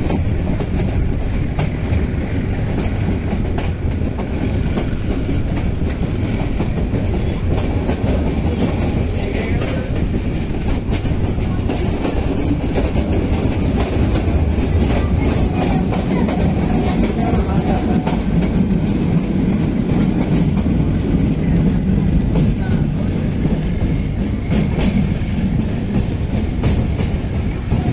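Train running steadily, heard from on board: a continuous rumble of wheels on the rails with light clicking over the rail joints.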